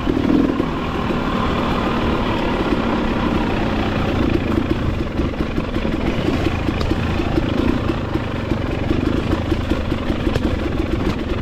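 Motorcycle engine running steadily, its firing pulses rapid and even.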